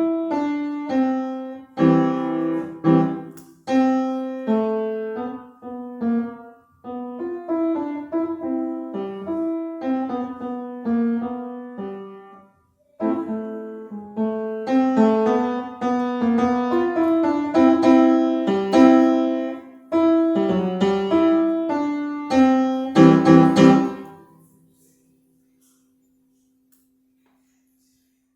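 Solo piano playing a melody with chords, with a brief break partway through. It ends on a loud final chord about three-quarters of the way in, and one low note lingers faintly after it.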